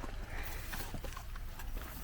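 Footsteps of people walking, a run of light, irregular steps.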